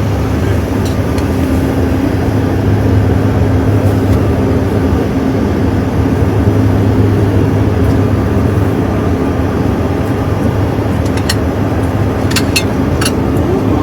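Steady engine and air noise inside a private jet's cabin, a constant low hum. A few short clicks near the end.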